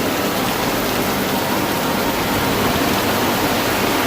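Heavy rain from a hurricane band, falling in a loud, steady hiss.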